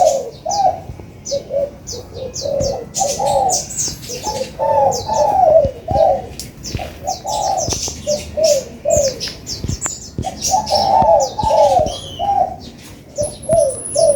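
Spotted dove cooing in short repeated phrases every couple of seconds, with the quick, high chirps of a sunbird over them.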